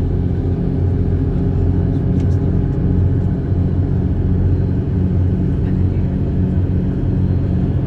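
A vehicle's engine running steadily: a loud, even, low drone with a steady hum of several pitches.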